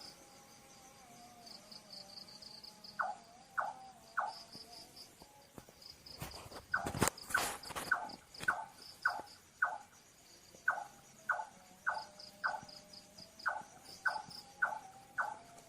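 A night bird calling in short falling notes, repeated about twice a second in runs, over crickets trilling in steady pulses. A louder, noisy burst comes about halfway through.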